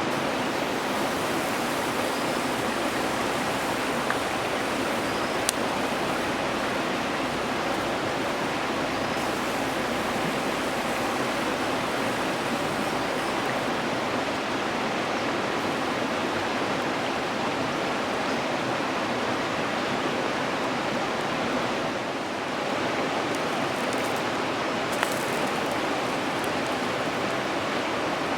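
Pancake batter sizzling steadily in a pan over a campfire, with a few sharp crackles from the burning wood.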